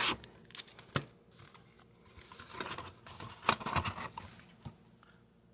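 Cardboard and wrapper packaging of a trading card box being handled and opened: scattered clicks, then a stretch of rustling and crinkling around the middle.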